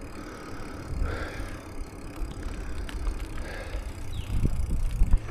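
Bicycle riding along, with a steady low wind rumble on the microphone and tyre noise, and a few faint clicks.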